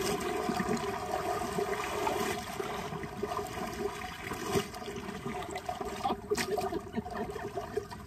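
River water splashing and sloshing as a pair of jeans is dunked and lifted out by hand, water pouring off the soaked cloth.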